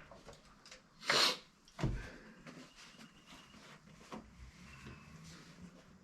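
Handling noises: a short rushing scrape about a second in, a knock just before two seconds, then a few faint clicks.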